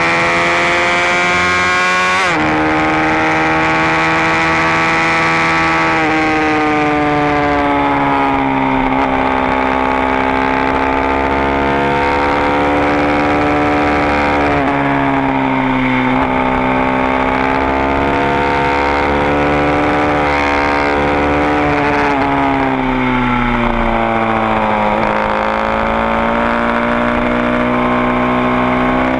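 Supermoto engine running hard on track, its pitch rising and falling with the throttle, with abrupt pitch changes at gear shifts several times, about two, six, fifteen and twenty-two seconds in.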